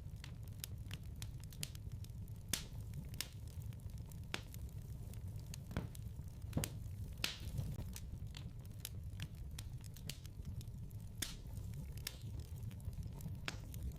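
Wood fire crackling in a fireplace: irregular sharp pops and snaps, a few of them louder, over a low steady rumble of the flames.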